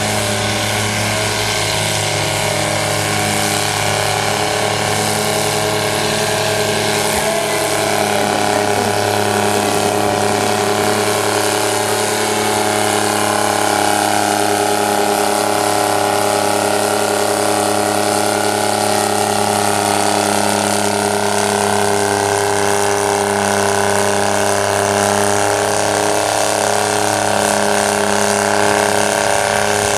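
Chamberlain Super 70 tractor's diesel engine running hard and steady under load, dragging a pulling sled the full length of the track.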